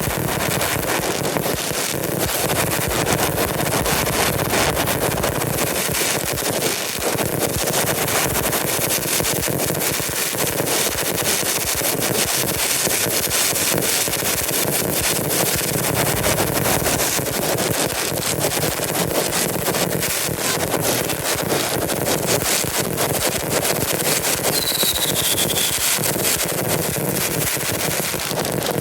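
Fireworks going off in a dense, unbroken barrage of crackling bangs, with a short falling whistle about 25 seconds in.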